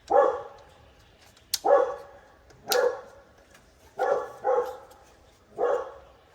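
A dog barking six times in short single barks, two of them in quick succession, with a couple of sharp clicks between the barks.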